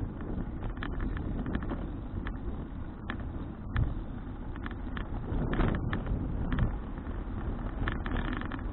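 Wind buffeting an action camera's microphone while cycling: a steady low rumble with scattered clicks and rattles.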